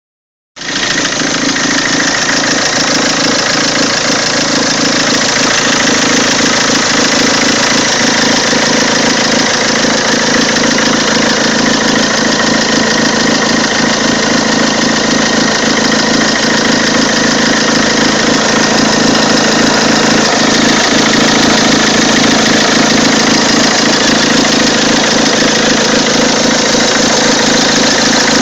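Peugeot 206 2.0 HDi four-cylinder turbodiesel idling steadily with a dense, rapid clatter, the odd engine noise that the owner cannot explain.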